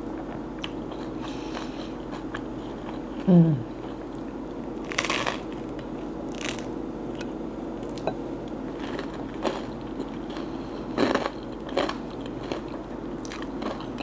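Crunchy toasted multigrain bread being bitten and chewed: a run of small crunches with a few louder bites. About three seconds in, a brief low hum falls in pitch.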